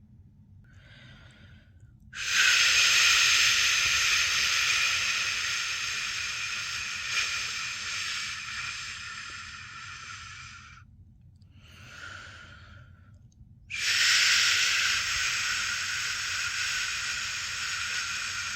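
A person shushing a long 'shhh' to soothe a newborn to sleep. There is a short soft shush, then a loud one lasting about eight and a half seconds, another short soft one, and a long loud one starting near the end.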